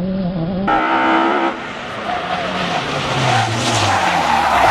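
Rally car engines on a special stage. Early on one engine's steady note is cut off, then another rally car approaches at speed, its engine revving up and down with tyres skidding, getting loudest near the end.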